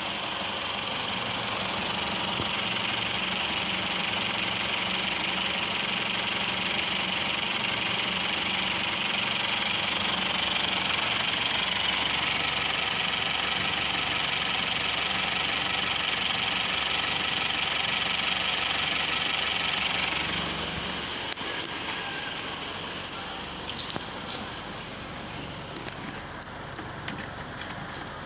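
2013 Isuzu D-Max 3.0-litre turbo diesel engine idling steadily with diesel clatter. It is switched off about twenty seconds in, followed by a few light clicks.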